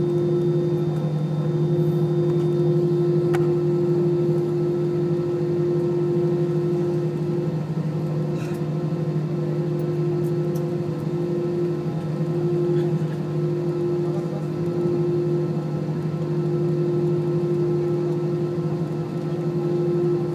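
Airliner cabin drone from the Airbus's Rolls-Royce jet engines: a steady, unchanging hum with a low tone and a higher, brighter tone held throughout.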